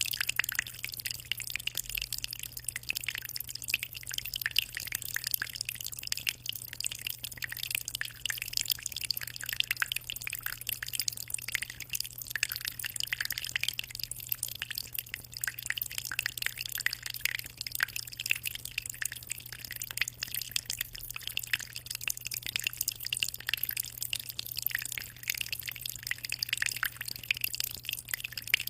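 Aquarium water trickling and bubbling continuously in a dense, even patter of small splashes, with a steady low hum underneath.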